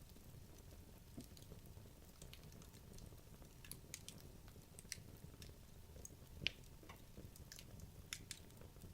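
Wood logs burning in a fireplace: faint, scattered crackles and small pops over a low background hiss, with one sharper pop about six and a half seconds in.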